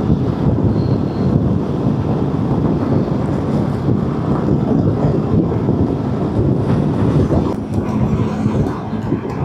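Steady wind noise buffeting an action camera's microphone on a moving motorcycle, mixed with engine and road noise at riding speed.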